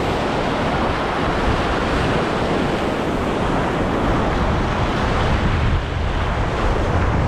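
Steady noise of waves washing over a shallow reef, with wind rumbling on the microphone.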